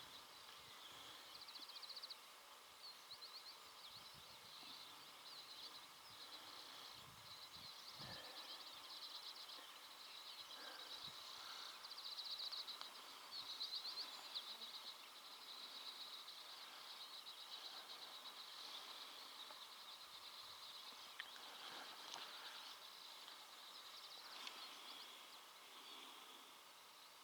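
Faint birdsong: small birds trilling and chirping over a quiet outdoor background.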